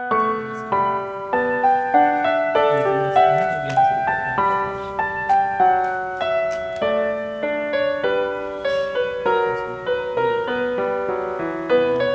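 Background piano music: a gentle melody of single struck notes at an even pace, about two notes a second.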